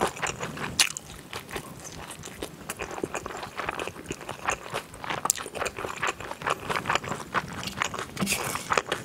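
Close-miked biting and chewing of a spicy galbi mandu (rib-filled dumpling): a dense run of short, wet mouth clicks.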